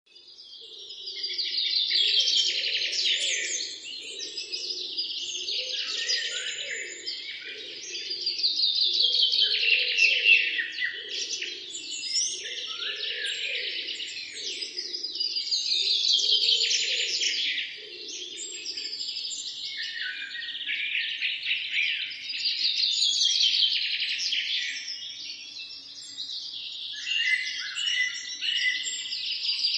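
A chorus of songbirds singing, many chirps and trills overlapping and swelling in waves every few seconds. It fades in from silence at the start, and a lower, softer sound runs beneath the song for the first half before it stops.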